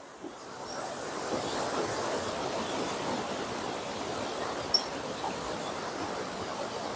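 Steady rushing of river water, a continuous wash that swells up over the first second or so, with one faint click about three-quarters of the way through.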